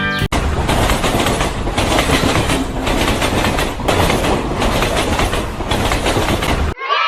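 A loud, dense rhythmic clattering noise, like wheels over rail joints, that cuts in sharply and stops abruptly near the end. It gives way to a brief falling tonal sound.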